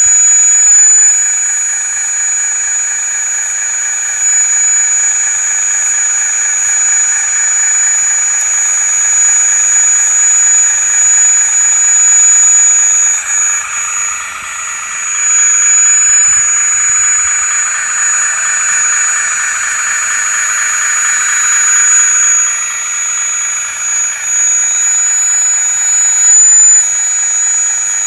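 Hydraulic pump of a 1/16-scale full-metal RC wheeled excavator running with a steady high whine over a buzzing hum. A lower hum joins from about halfway through and fades a few seconds before the end.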